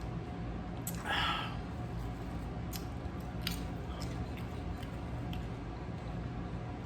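Close-miked chewing of a Subway sub, with sharp mouth clicks every second or so and a short crinkly rustle about a second in, over a steady low hum.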